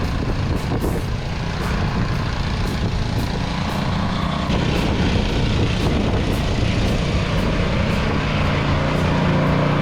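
Snow blower engine running steadily under load while clearing deep, packed, wet snow that is hard to blow. The sound cuts off abruptly at the end.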